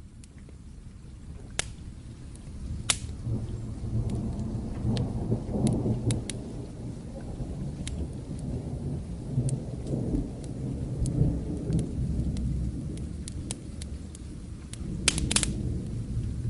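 Distant thunder: a low rumble that swells about three seconds in and keeps going over steady rain. Scattered sharp crackles from a wood fire sound throughout, with a quick cluster of them near the end.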